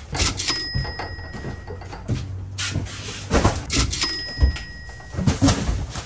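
Cardboard boxes being lifted, shuffled and set down on a wooden pallet inside an enclosed cargo trailer: a series of thuds and scrapes, the heaviest in the second half.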